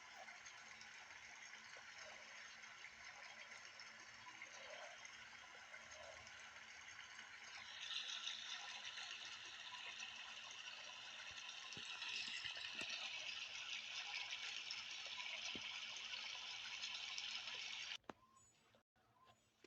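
Steady white noise, a rushing hiss that grows louder and brighter about eight seconds in, then cuts off abruptly near the end.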